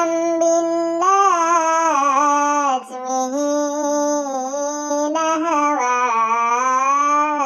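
A high, child-like singing voice sings a sholawat melody in long held notes that waver and bend, with two short breaths between phrases.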